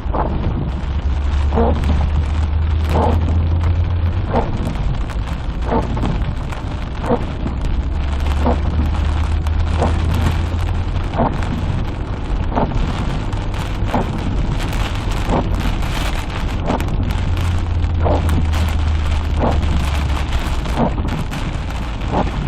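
Heavy rain in a thunderstorm, a continuous hiss over a deep rumble that swells and fades, with a soft knock repeating about every second and a half.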